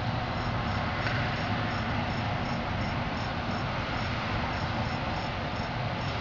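Metra commuter train of bilevel coaches rolling slowly over yard track: a steady low rumble with rolling noise. Crickets chirp faintly throughout in a regular pulse, about three chirps a second.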